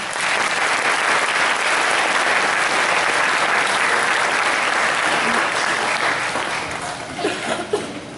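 Audience applauding: a dense burst of clapping that sets in sharply and tapers off near the end.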